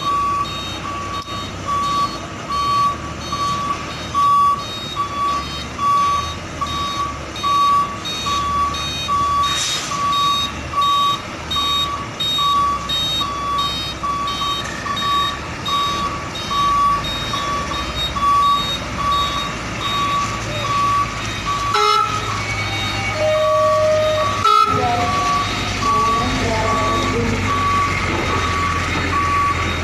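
Reversing alarm of a container truck beeping steadily, a little faster than once a second, over the low running of its diesel engine as it backs up. About two-thirds of the way through the beeping is briefly broken by other short tones.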